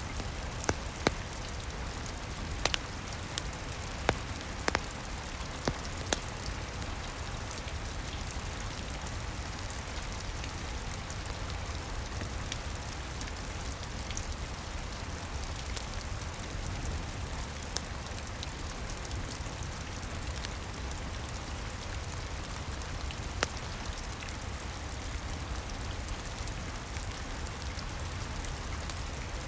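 Steady rain hiss with a low rumble underneath, and a crackling wood fire in a fireplace giving sharp pops: a quick cluster of them in the first six seconds, then one more about three-quarters of the way through.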